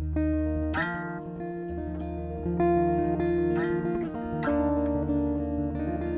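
Acoustic guitar playing an instrumental song intro, chords struck every second or two over a held low bass note.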